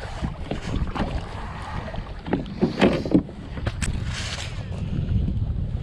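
Wind rumbling on the microphone aboard a sit-on-top kayak, with a few light knocks and clicks of handled gear about two to three seconds in and a brief hiss a little later.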